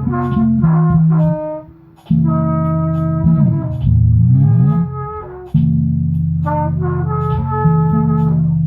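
Band jamming instrumentally: loud held chords with a melody of changing notes on top. The chords break off twice, and there are pitch bends in the middle.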